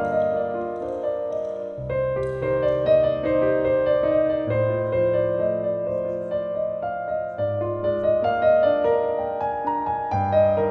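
Background piano music: a slow, gentle melody over sustained low bass notes.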